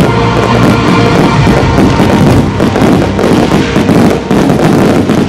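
Rock music with drums and guitar, with a dense barrage of firework bursts banging and crackling over it during a display's finale; the loud mix drops away sharply at the very end.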